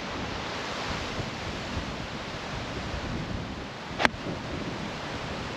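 Strong wind buffeting the microphone, with a single crisp strike of a golf iron (an 8 iron) on the ball about four seconds in.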